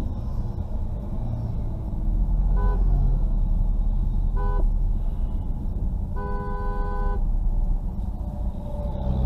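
A vehicle horn sounds three times: two short toots, then a longer blast of about a second. Underneath is the steady low rumble of engines in traffic.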